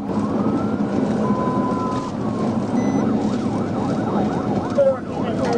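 Police car siren going in a slow rising-and-falling wail, then switching to a fast yelp about three seconds in.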